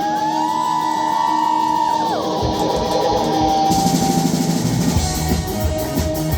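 Live rock band playing an instrumental passage: a held, bending electric guitar line, with the drum kit coming in about two and a half seconds in.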